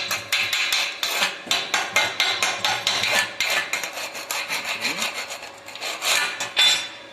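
Steel wire brush scrubbing slag off a freshly laid arc-weld bead between passes: quick scraping strokes, about four or five a second, with a couple of longer scrapes near the end before it stops.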